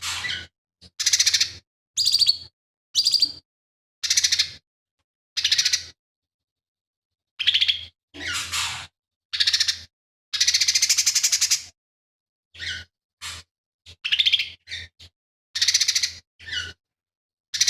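Lesser green leafbird (cucak ijo mini) singing a string of short, rough phrases, each under a second and set apart by brief pauses, with a fine rapid rattle in many of them.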